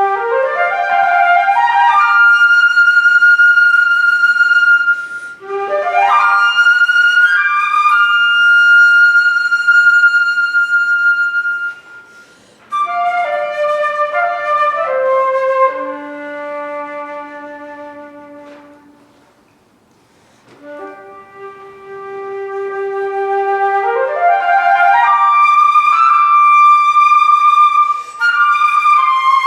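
Solo flute playing a slow, free-flowing melody: quick upward runs sweep from a low note into long held high notes. About halfway through, a falling passage ends on a low held note that fades almost to nothing, then another upward run rises into held high notes.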